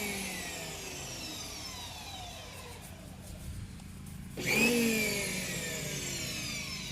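Pressure washer motor kicking in sharply twice, about four and a half seconds apart. After each start its whine slides steadily down in pitch.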